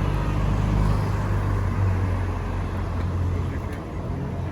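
A motor vehicle's engine running close by in street traffic: a steady low hum, loudest in the first two seconds and easing off toward the end.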